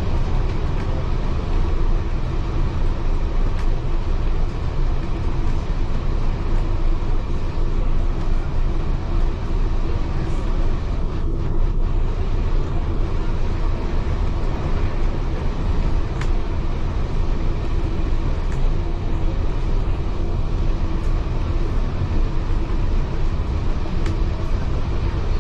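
Steady low rumble of a heritage railway carriage running along the track, heard from inside the carriage, with a few faint clicks.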